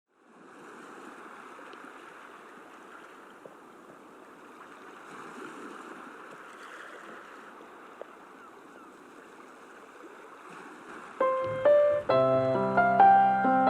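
Soft ocean-wave ambience fades in, a steady wash of water. About eleven seconds in, instrumental music comes in with a run of struck, ringing notes over a low bass.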